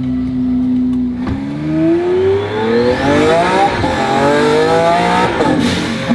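Twin-turbo Lamborghini Aventador S V12 engine idling, then revving up hard about a second in. The revs climb, dip briefly near the middle, climb again and fall back toward idle near the end.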